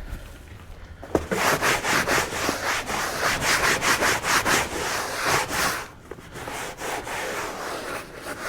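Rapid repeated rubbing strokes, about four a second, starting about a second in and strongest for the next five seconds before fading to a fainter continuation.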